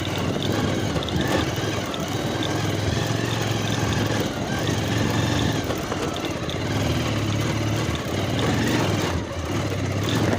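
Motorcycle engine running steadily at low revs, its pitch wavering and dipping slightly now and then.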